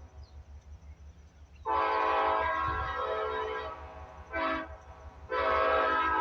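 Diesel locomotive's multi-chime air horn sounding a long blast, a short blast, then another long blast, over the low rumble of the train. The long-short-long ending fits the standard grade-crossing warning.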